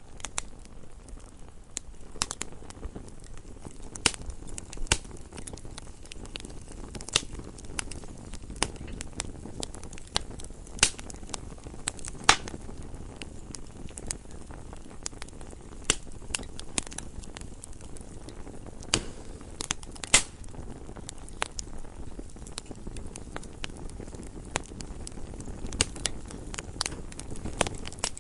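Wood fire burning in a fireplace: irregular crackles and pops over a low, steady rumble of the flames, with a few louder snaps, the sharpest about twelve and twenty seconds in.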